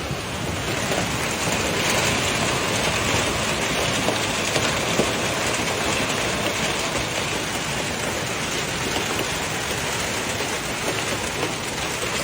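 Heavy rain pouring down in a steady hiss, a little louder from about a second in.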